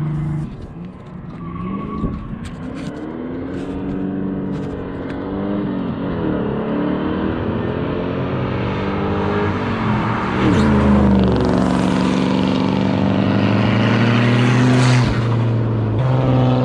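Cars accelerating hard and passing by, engines revving up through the gears with their pitch rising and falling. The engine sound grows louder and steadier in the second half.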